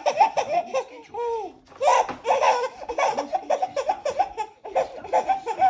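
High-pitched laughter in quick repeated bursts, breaking off briefly a few times.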